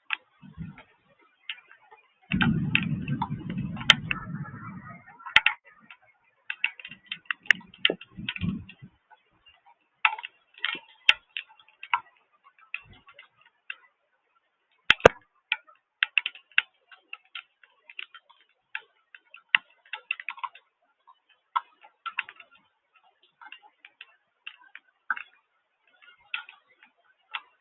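Irregular sharp ticks of water drops hitting a hard surface close to the microphone, a few a second. A low rumble lasting a couple of seconds starts about two seconds in.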